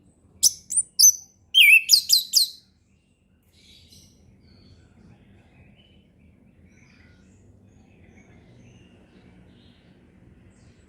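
Orange-headed thrush singing one short loud phrase of quick whistled notes, starting about half a second in and lasting about two seconds. After it, only faint distant bird calls over low background noise.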